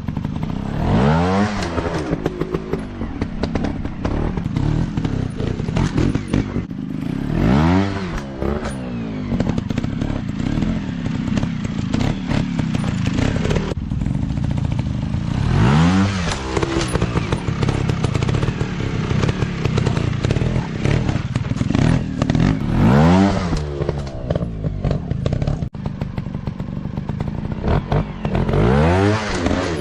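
Off-road dirt bike engines running steadily, revved up and back down five times, about every seven seconds.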